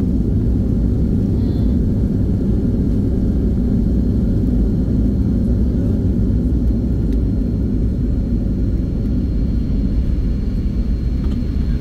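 Passenger airliner cabin noise in flight: a steady low rumble of engines and airflow heard from inside the cabin.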